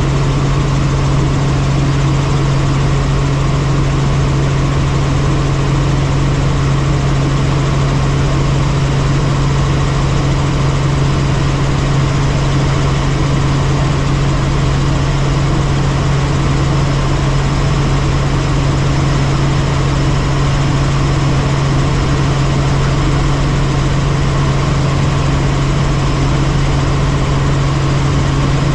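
Helicopter in steady flight: the rotor and turbine engine make a constant loud drone with a strong, steady low hum, unchanging throughout.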